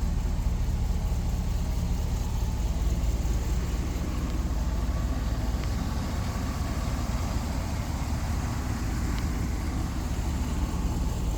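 2004 Hummer H2's V8 engine idling steadily with a low, even rumble.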